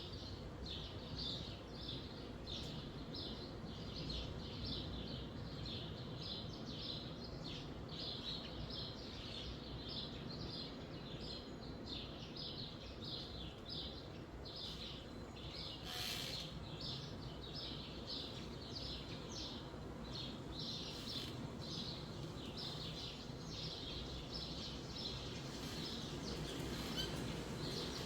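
Small birds chirping over and over, a steady run of short high chirps about two or three a second, over the low rush of wind in the trees. A single brief click sounds about halfway through.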